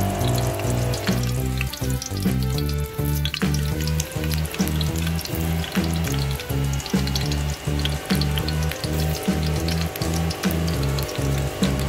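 Onion pieces sizzling and crackling in hot oil in a wok, over background music with a steady beat.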